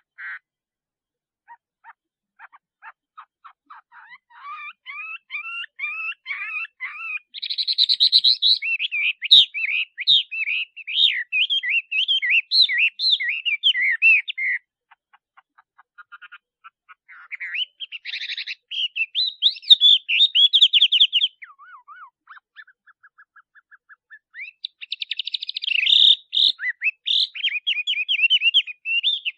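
Male Chinese hwamei singing: long, varied phrases of rapid whistled notes and trills, in three bouts with short pauses between.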